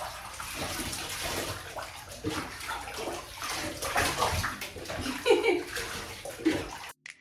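Water running into a bathtub with irregular splashing as a dog is washed in it; the sound cuts off abruptly near the end.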